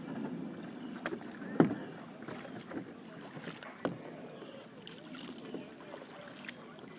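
Kayak being paddled, the paddle working the water, with a few sharp knocks; the loudest comes about one and a half seconds in.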